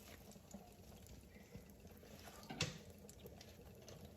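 Near silence: faint room tone with one short click about two and a half seconds in.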